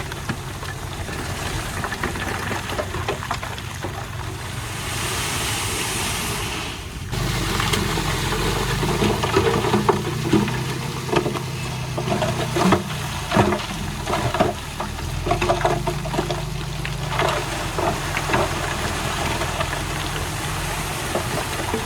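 Heavy earthmoving machine's diesel engine running steadily. About a third of the way in the sound changes abruptly and grows heavier, with irregular metallic clanks and knocks over the following ten seconds.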